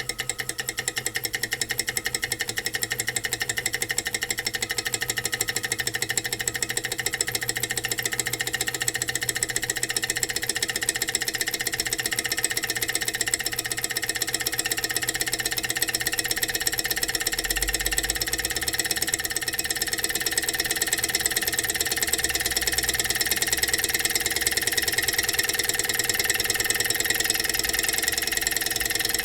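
Small Stirling engine running fast, making a rapid, even mechanical ticking that holds steady throughout.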